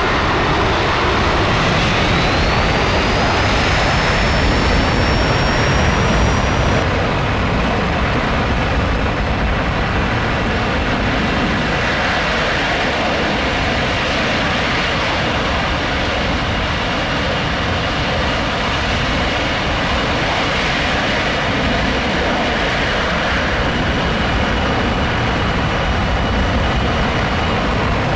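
Jet aircraft engines running at high power: a loud, steady rush of noise. A thin turbine whine rises in pitch over the first few seconds, and a steady high whine holds through the later part.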